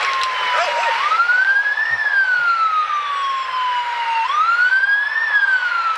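Emergency vehicle siren wailing over steady traffic noise. Each cycle rises quickly in pitch, then falls slowly, repeating about every three seconds.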